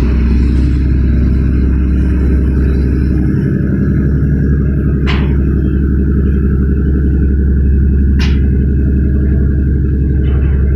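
A loud, steady low rumble, with two sharp clicks about five and eight seconds in.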